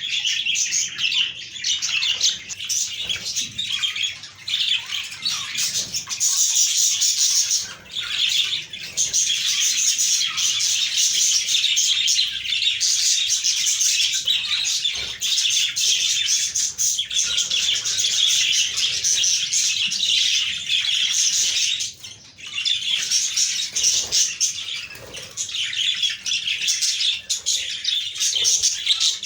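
A flock of budgerigars chirping and warbling together in a dense, continuous chatter, with short lulls a few times.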